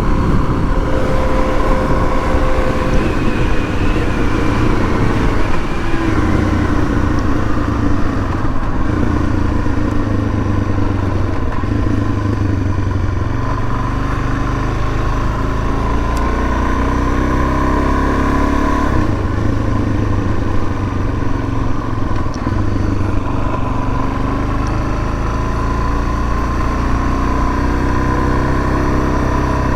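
2019 Suzuki DR-Z400S's single-cylinder four-stroke engine running while riding, its pitch rising and falling with the throttle, with wind rushing over the microphone.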